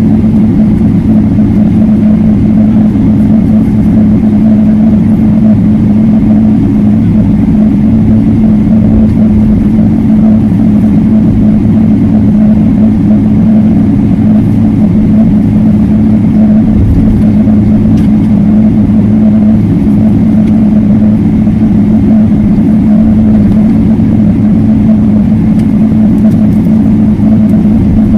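Steady, loud drone inside a Boeing 777-300ER cabin: engine and airflow noise with a constant low hum, unchanging throughout.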